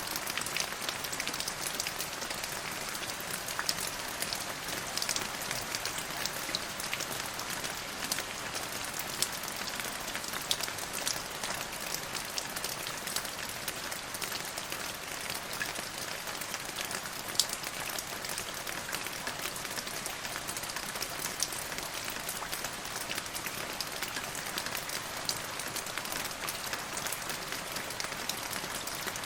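Steady rain falling: an even hiss of rain with many small, sharp drop impacts scattered through it and one louder drop about 17 seconds in.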